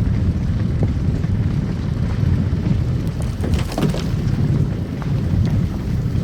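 Car driving on a snow-covered road: a steady low rumble of tyres and engine, with a few short crackles and ticks about three to four seconds in.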